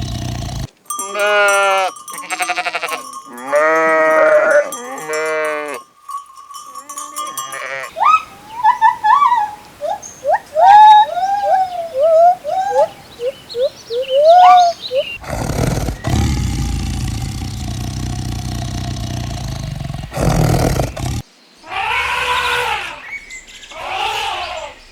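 Sheep bleating: several long, wavering bleats in the first few seconds, then a run of short, high calls that rise and fall, and more bleats near the end.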